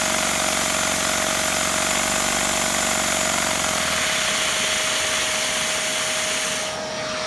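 Lego Technic flat-twin vacuum engine running at low speed, its pistons clattering in a fast rhythm over the steady whine and hiss of the vacuum cleaner that drives it. The clatter dies away about four seconds in, leaving the vacuum's whine, whose hiss drops near the end.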